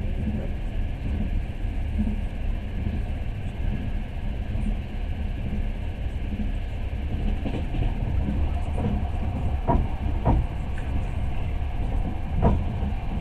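Passenger train carriage rumbling along the track, heard from inside the car. About ten seconds in come a few sharp knocks of the wheels over rail joints: two in quick succession, then one more.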